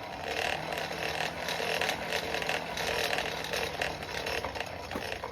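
Blower air rushing through a coal forge fire, a steady noisy rush, with a faint low motor hum that stops about four seconds in.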